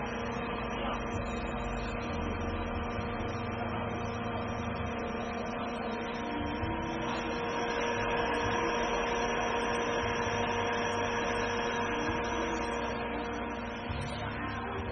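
BGA rework station's hot-air blower running: a steady whirring hum with a constant tone, slightly louder from about eight seconds in.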